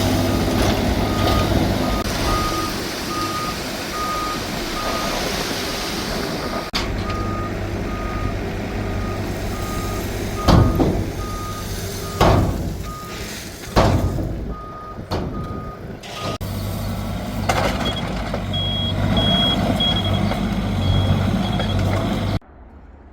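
A heavy vehicle's reversing alarm beeping steadily, about one and a half beeps a second, over its running engine. Several sharp clunks come in the middle, and a higher-pitched beep repeats near the end before the sound cuts off suddenly.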